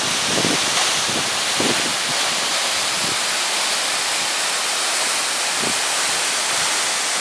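Waterfall rushing steadily: the 54 m single vertical drop of the Suvcharsko praskalo, its falling water a constant even rush with no break.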